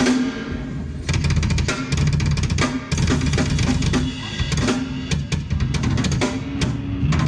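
Live band: a drum kit hit in quick strokes with bass drum and snare, over electric guitar and bass.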